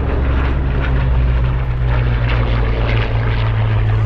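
Propeller aircraft engine droning steadily overhead. The low tone rises in pitch about a second in and then holds.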